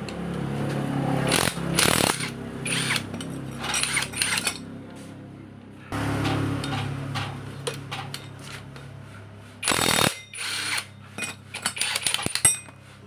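Impact wrench running in two bursts, its motor whirring under a rapid hammering rattle, followed by a few separate metallic clicks and knocks near the end.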